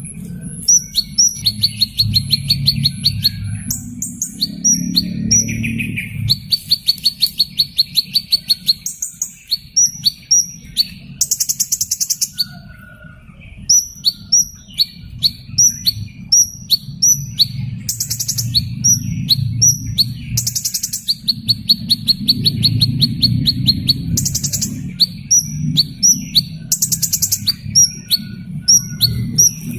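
A small bird calling over and over: quick high chirps that drop in pitch, mixed with short buzzy trills, with a steady low hum underneath.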